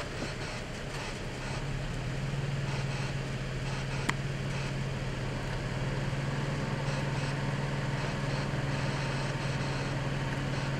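A vehicle engine idling with a steady low hum, a little louder from about two seconds in, with one faint click about four seconds in.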